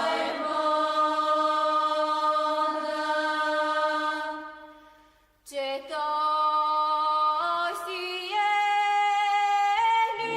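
Background music of choral voices singing long held notes without instruments. The first phrase fades out a little before halfway, and a new phrase starts with notes stepping upward.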